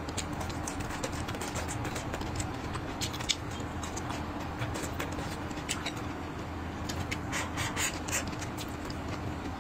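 Close-miked eating sounds: wet chewing and lip smacking on stir-fried red pepper and rice, heard as many small sharp clicks, busier near the end as rice is pushed from the bowl into the mouth with chopsticks. A steady low hum sits underneath.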